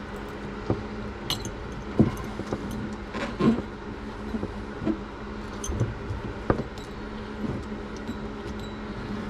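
Steady hum of an electric fan, with scattered metallic clinks and knocks from hand tools working the hot water supply line fitting under a kitchen sink.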